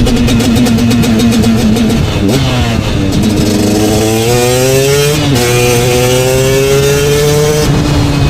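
KTM 250 two-stroke motorcycle engine running, steady at first, then dropping and climbing in pitch under throttle, with a brief dip about five seconds in before it climbs again, and dropping back near the end.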